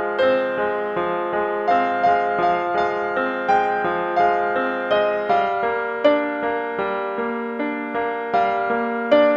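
Background music: gentle piano notes struck at an even pace, each ringing out and fading.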